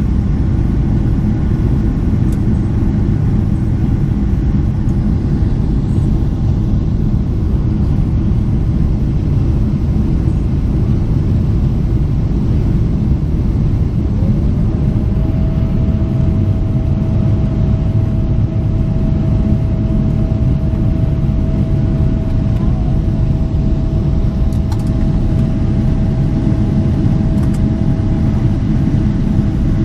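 Boeing 777 cabin noise in flight: a steady low roar of the jet engines and rushing air through the fuselage. A thin steady hum joins about halfway through.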